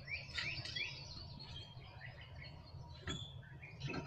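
A bird singing a quick run of rising chirps, about three a second, that stops about a second in. Two short knocks follow near the end.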